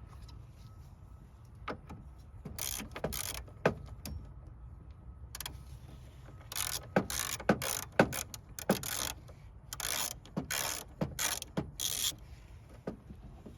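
Ratchet wrench clicking in short bursts of strokes while bolts are worked loose on the radiator, about a dozen bursts with brief pauses between them.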